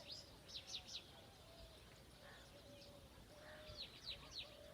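Faint outdoor birdsong: a bird gives two quick runs of three or four high, sharply falling chirps, one about a second in and one near the end, over fainter low calls from other birds.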